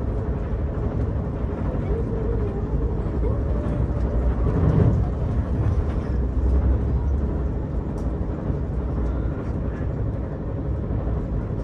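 Steady low rumble of a passenger train running along the rails, heard from inside the coach. It swells briefly about five seconds in.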